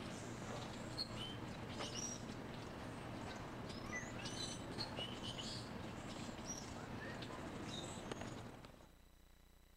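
Small birds chirping in short repeated whistles over a steady outdoor background noise; the sound cuts off abruptly near the end.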